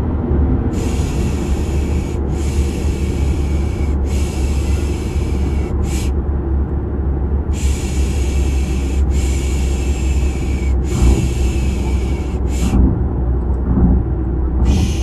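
Steady low car rumble, with a person's long hissing 'shh' shushing sounds repeated over it, each about a second and a half long, in two runs broken by pauses: a soothing sound for getting a baby to sleep.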